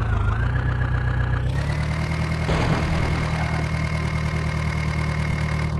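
Swaraj tractor's diesel engine running steadily, its pitch dipping briefly at the start and picking back up about one and a half seconds in.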